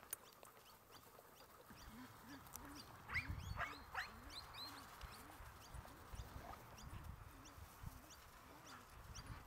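Faint birds chirping and calling in short rising and falling notes, busiest about three to four seconds in. Under them, a low rhythmic sound repeats about twice a second.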